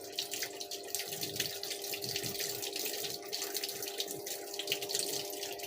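Water pouring and splashing into the tub of a Samsung 6.5 kg top-loading washing machine as it fills through the inlet valve, with a steady hum underneath.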